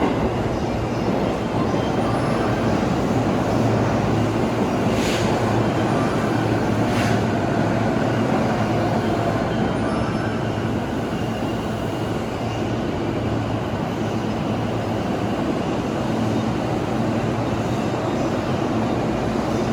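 Train running, a steady rumble with a low hum throughout, with two brief high-pitched squeals about five and seven seconds in.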